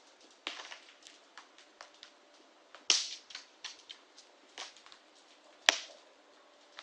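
Wood fire crackling, with irregular snaps and two loud pops, about three seconds in and near the end.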